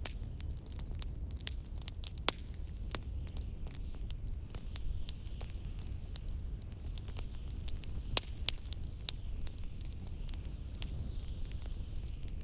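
Wood fire crackling with frequent sharp pops over a steady low rumble of blizzard wind.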